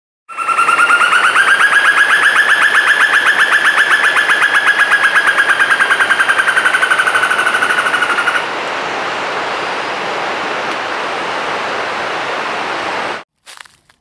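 A bird's loud, rapid trill of evenly pulsed notes, rising a little in pitch and then easing down, lasting about eight seconds. It stops abruptly and a steady hiss of background noise carries on for about five seconds, then cuts off.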